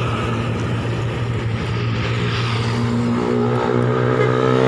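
Truck engine running steadily; about three seconds in a steady pitched tone joins it.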